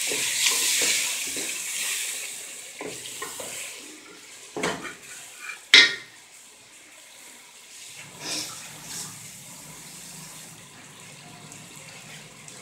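Onion-and-tomato masala sizzling in a metal pot while it is stirred with a wooden spoon; the sizzle dies down after about two seconds. A couple of sharp knocks of the spoon against the pot follow, the loudest about six seconds in, then only quiet stirring over a faint low hum.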